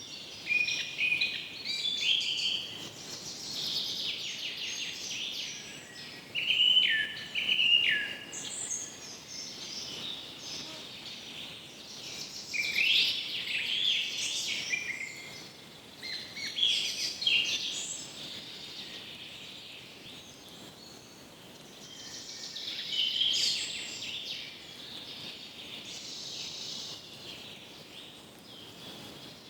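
Wild birds calling and singing: a busy run of chirps and short whistled phrases, some notes stepping down in pitch, coming in clusters with a few louder calls, over a faint steady background hiss.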